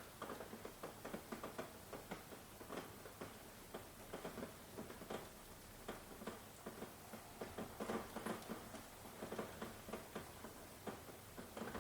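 Rain falling: a soft steady hiss with many irregular drops tapping close by.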